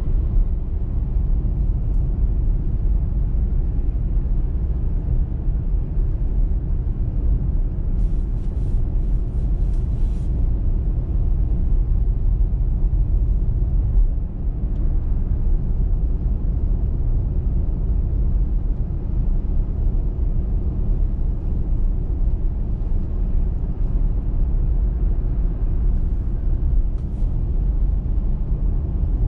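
A car driving on a snowy motorway: steady low road and tyre rumble with engine noise, and a brief run of faint clicks about eight seconds in.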